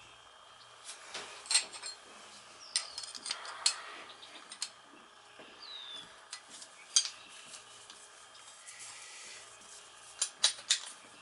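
Metal hand tools and a removed blower-motor pulley being handled: scattered clinks and clanks of metal on metal, a few sharp knocks louder than the rest, and a couple of brief high squeaks.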